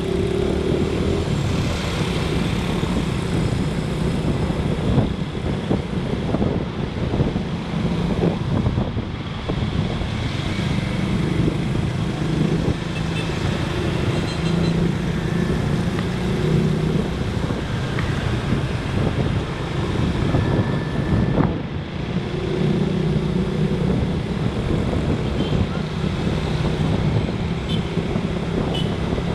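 Motorcycle engine running under way, its pitch shifting up and down with speed, over wind rush and surrounding road traffic.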